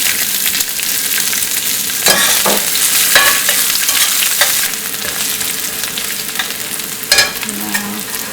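Chopped onion frying in hot oil with mustard seeds, dals and curry leaves in a pan, sizzling steadily, while a spatula stirs and scrapes against the pan several times. The sizzle eases a little about halfway through.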